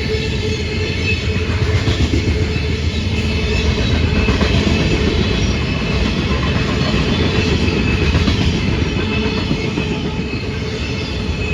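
Freight train rolling past: a steady rumble and clatter of railcar wheels on the rails, with faint high-pitched wheel squeal over it.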